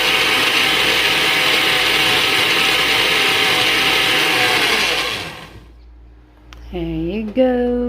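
Electric kitchen blender running steadily as it blends a mango and avocado shake, with a steady whine over the churning. About five seconds in it is switched off and winds down. A voice is heard near the end.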